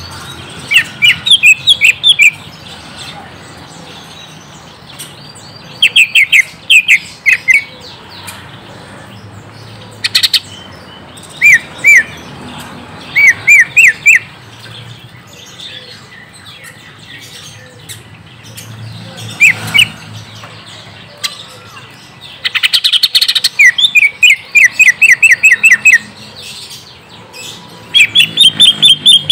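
Greater green leafbird (cucak ijo) calling: loud bursts of rapid, sharply sweeping chirps, each run a second or two long and a few seconds apart, with a longer run of chirps about two-thirds of the way through.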